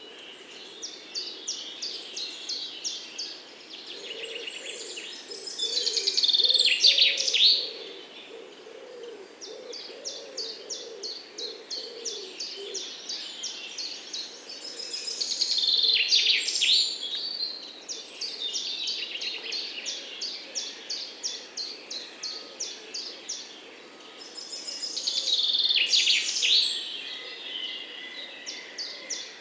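Birdsong: steady runs of short, high chirps repeated about four times a second, broken roughly every ten seconds by a louder phrase of quick descending notes. A faint low warbling sound runs underneath in the first half.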